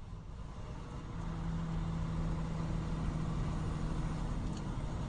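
Motor vehicle engine and road rumble, swelling over the first second or so, with a steady engine hum that holds for about three seconds before fading into the rumble.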